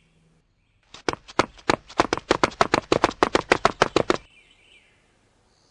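A rapid, even run of sharp taps, about nine a second, lasting about three seconds and stopping abruptly.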